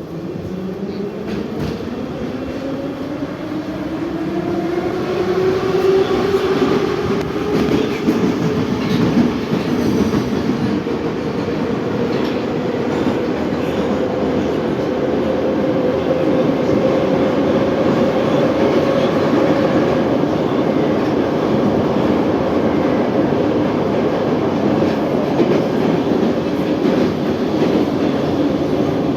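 81-717/714 metro train accelerating: the traction motors' whine rises in pitch over the first several seconds and then holds steady as the train runs at speed, with wheel and rail clatter.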